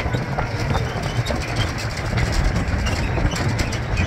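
Open-air park ride train rolling along, a steady low rumble of its running gear with scattered rattling clicks from the carriages.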